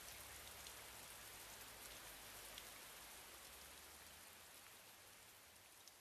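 Faint, steady rain hiss with scattered tiny drop ticks, fading slightly near the end.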